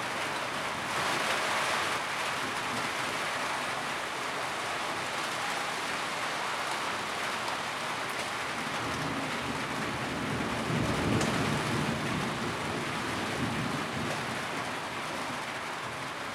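Steady rain drumming on a tin roof, a dense even patter. Partway through, a low rumble swells and fades.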